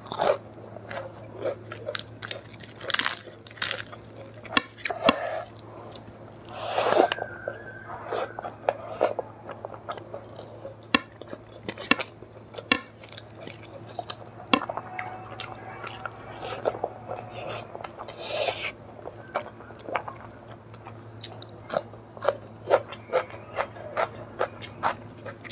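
Close-miked eating: wet chewing and mouth clicks, broken by several loud crunches as mouthfuls of rice with crisp papad are bitten and chewed.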